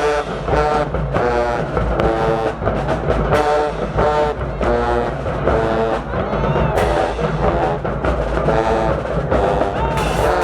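Marching band playing: the brass sounds short, repeated chord blasts about one and a half times a second over bass drums and percussion.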